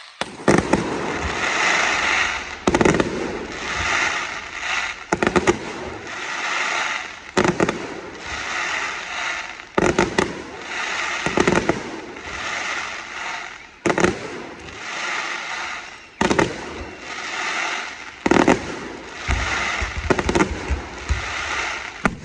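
Fireworks display: loud bangs of bursting shells every second or two over a continuous crackling fizz.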